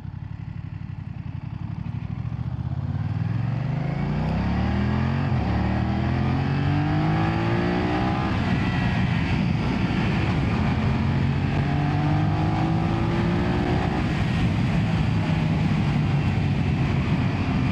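BMW F900R's 895cc parallel-twin engine accelerating hard, its pitch climbing and then dropping sharply at each upshift, two or three times. It grows louder as speed builds, with wind noise around it.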